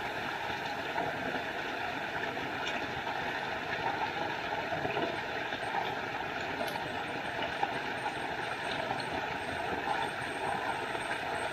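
Small forest waterfall: a steady, even rush of falling water.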